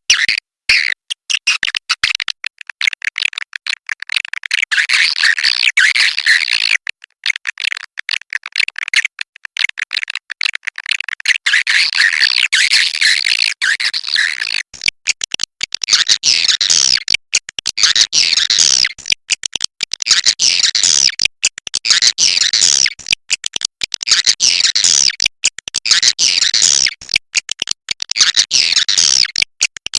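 Swiftlet calls: fast, clicky chattering trills, a dense run in the first half, then repeated phrases a little over a second apart.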